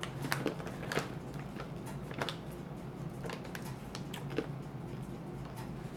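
Chewing a crunchy coconut-coated cashew: irregular small crunches and clicks, about a dozen over several seconds, over a steady low hum.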